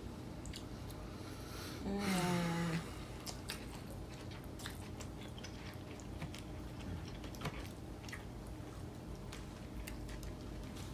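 People chewing and biting food close to the microphone, with many small wet mouth clicks scattered throughout. A short hummed voice sound, falling in pitch, comes about two seconds in.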